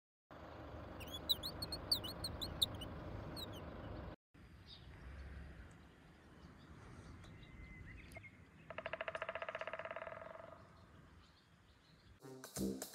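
Small birds chirping, a run of short high chirps over a steady outdoor background noise. Later a rapid buzzy trill lasts about two seconds.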